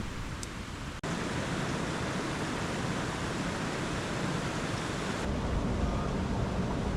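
Steady rushing of a creek's cascades, an even noise that breaks off abruptly about a second in and changes in tone about five seconds in.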